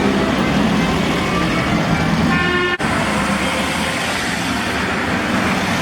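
Car engines running by in traffic, with a brief car horn toot a little over two seconds in.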